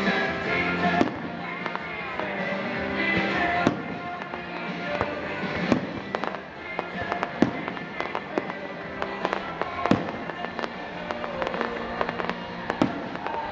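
Fireworks bursting in quick succession, sharp bangs every second or so with smaller crackling pops between, over music that plays throughout. The loudest bangs fall about one, four, six, seven and a half and ten seconds in.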